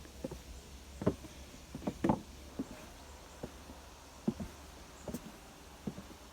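Footsteps on the forest floor: a walker's steps landing as short, uneven thuds and crunches, roughly one or two a second, over a steady low rumble.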